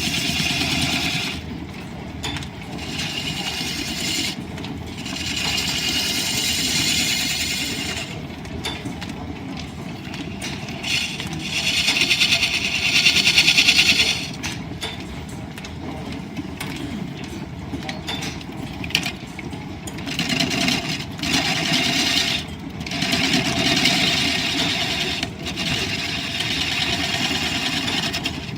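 Line-shaft driven wood lathe running while a turning tool cuts the spinning wood. The cutting comes and goes in repeated swells of hiss over the steady machine noise, loudest a little before halfway through.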